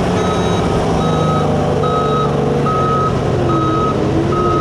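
Vehicle reversing alarm beeping steadily, a little over once a second, over a running engine.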